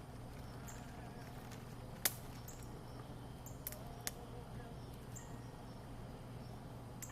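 Campfire crackling with a few sparse sharp pops, the loudest about two seconds in, over a low steady hum. Faint short high chirps now and then.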